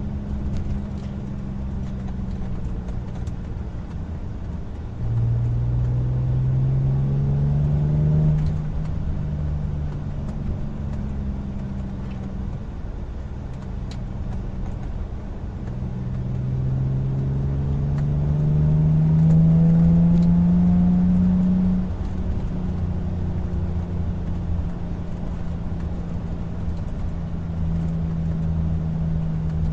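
Audi A4 B6 3.0-litre V6 running through an aftermarket exhaust with Remus mufflers, a custom H-pipe and the secondary cat deleted, driving. It pulls twice, about five seconds in and again past the middle, the engine note rising and getting louder before dropping back suddenly each time, and runs at a steady cruise in between and toward the end.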